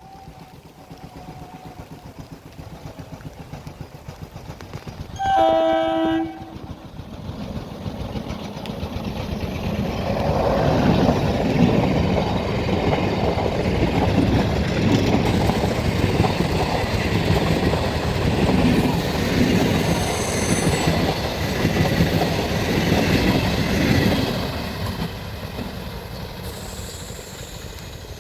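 A train horn gives one blast of about a second, then Indian Railways local trains pass close by: a rumble with wheel clatter builds over a few seconds, stays loud for about fourteen seconds, then fades near the end.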